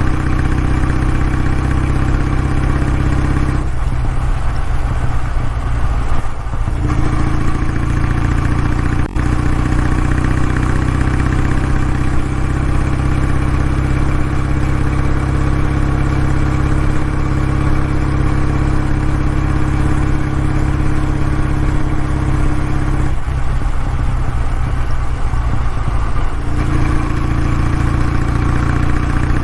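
Kawasaki W650's air-cooled parallel-twin engine running steadily through its exhaust. Twice, about 4 s in and about 23 s in, the upper part of the sound drops away for a few seconds, leaving a duller, deeper beat before it returns.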